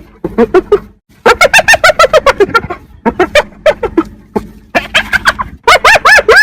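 Hyena giggling: rapid strings of short yelping notes that each rise and fall in pitch, coming in several bouts with short gaps, the loudest bout near the end.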